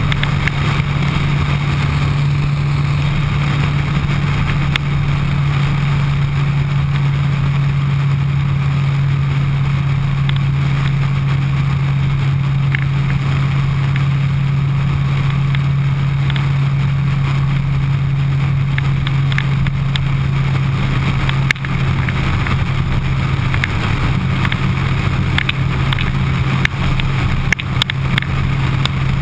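Suzuki Hayabusa's inline-four engine running steadily at cruising speed, a constant low drone, with wind noise over it.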